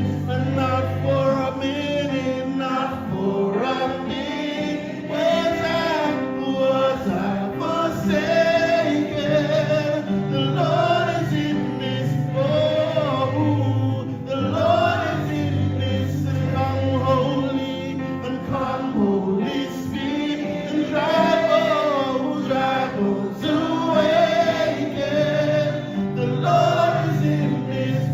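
Live gospel worship music: a choir and congregation singing together over a band with steady bass notes.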